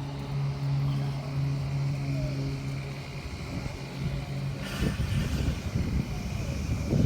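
A steady low motor hum that fades out about four seconds in, followed by irregular rumbling and rustling handling noise with a knock near the end.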